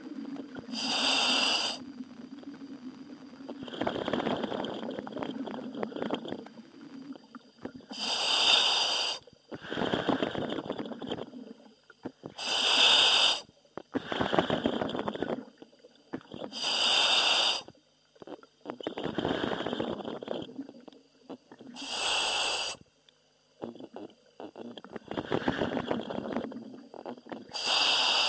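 A helmeted commercial diver breathing through the helmet's demand regulator, heard over the diver's communication line: a sharp hissing inhale every four to five seconds, each followed by a rougher, lower exhale.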